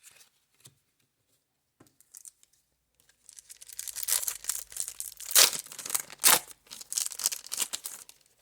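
A card-pack wrapper crinkling and tearing as it is opened. It starts about three seconds in, a fast run of crackles lasting about five seconds, with two sharp loud rips near the middle.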